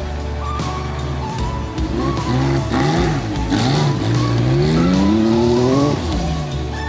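Porsche 911 rally car's flat-six engine revving. About two seconds in, its pitch rises and falls several times, then climbs steadily before breaking off near the end. Background music plays throughout.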